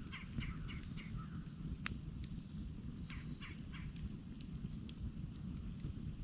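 Wood campfire burning with a low steady rumble, scattered crackles and one sharp pop about two seconds in.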